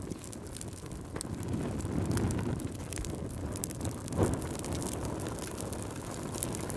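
Crackling fire: a low rumble of burning flames with scattered sharp crackles, and a louder pop about four seconds in.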